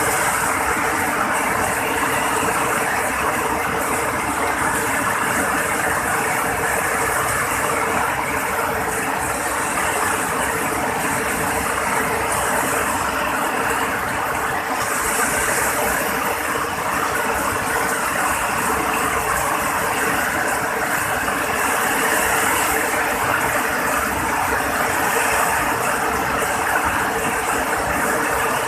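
Heavy rain falling steadily, a constant hiss at an even level.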